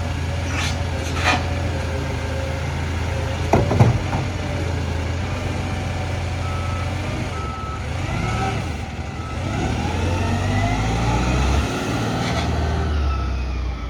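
Garbage truck engine running steadily, with two short hisses near the start and a loud clatter about four seconds in. From about halfway a reversing alarm beeps about once a second while the engine revs up and down.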